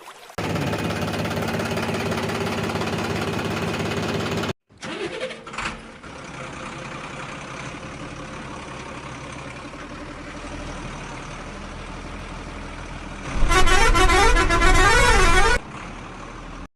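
Vehicle sounds joined with abrupt cuts: a steady engine-like drone that stops suddenly, a few brief noises, then a quieter steady running sound. Near the end a loud musical horn plays a short repeating tune for about two seconds.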